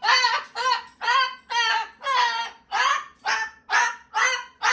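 Pet cockatoo screeching over and over, about two loud, harsh calls a second; the owner calls it too loud.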